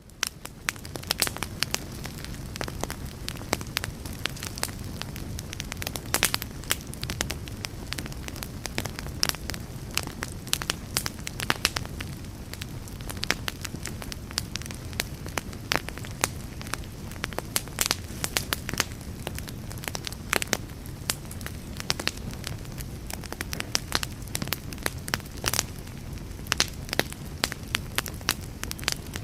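Wood campfire burning with a steady low rush of flames and frequent irregular sharp crackles and pops from the burning wood.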